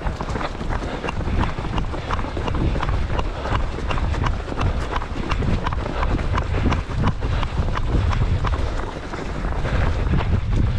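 A runner's footfalls at a steady race pace, about three a second, heard from a camera carried while running. Strong gusty wind buffets the microphone as a low rumble.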